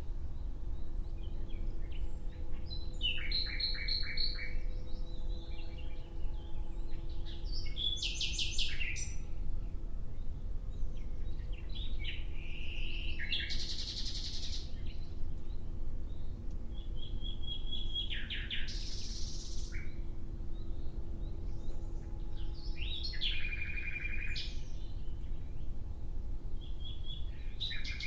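Nightingale singing in separate phrases every few seconds, each a fast run of repeated notes mixed with short clear whistles. A faint steady hum and a low rumble sit underneath throughout.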